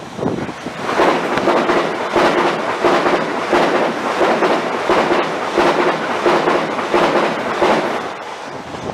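A train passing close by, its wheels clattering rhythmically over the rail joints and points about twice a second. The clatter fades toward the end.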